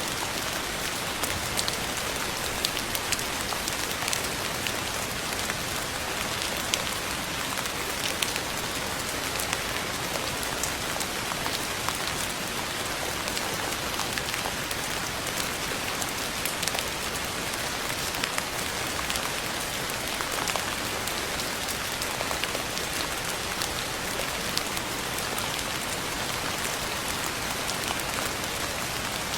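Steady rain falling: an even hiss with many separate, sharp drop ticks scattered through it.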